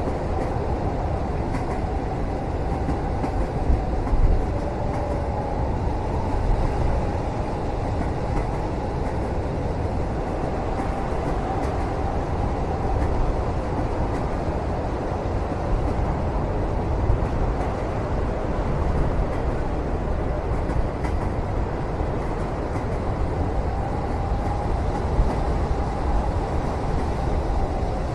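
Steady rumble of a moving passenger train heard from inside the cabin, with a faint wavering hum and a few light knocks from the carriage.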